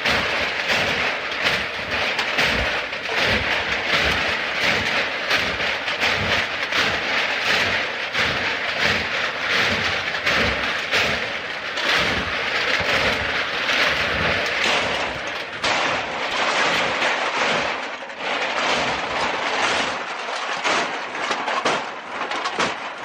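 Aluminum cans crunching and clattering under foot as loose cans are stomped down and compacted: a dense, irregular run of metallic crackles and knocks.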